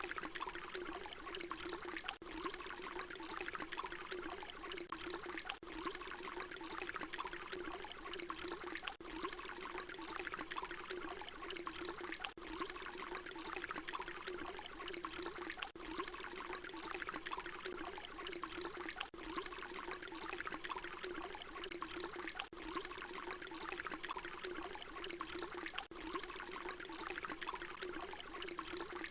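Water pouring in a steady, continuous stream, with a constant ringing tone under the splash. Very brief dips recur about every three and a half seconds where the short recording loops.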